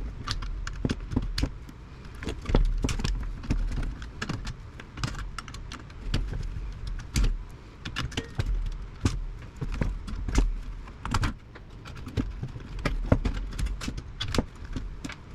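Irregular metallic clicks and clinks, several a second, of hand tools snipping and pulling wiring out of an old radio's metal chassis, with low bumps from handling it.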